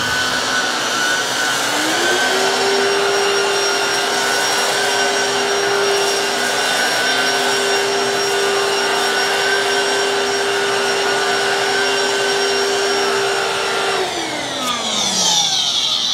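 Black + Decker PowerSeries 16V cordless stick vacuum running on pet hair, a steady motor whine that steps up in pitch about two seconds in. Near the end it is switched off and the whine falls away as the motor winds down.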